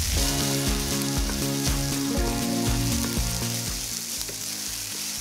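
Shallots and ginger-garlic paste sizzling in hot oil in a non-stick kadai, with the scrape and knock of a wooden spatula stirring them. A few steady tones sit underneath and shift about two seconds in and again near four seconds.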